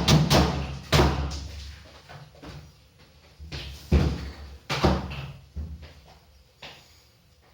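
A string of hard bangs and knocks against a fridge. Several come in the first second, more follow about four and five seconds in, and they thin out toward the end.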